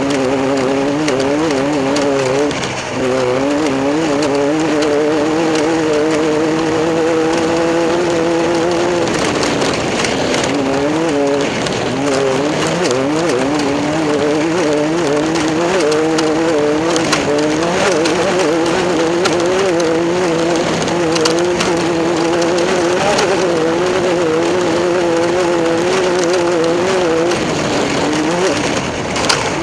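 Race car engine running, its pitch wavering up and down in small waves, with a short break in the tone about ten seconds in.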